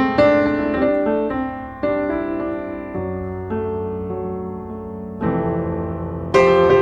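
Background piano music: chords struck about once a second, each ringing out and fading before the next.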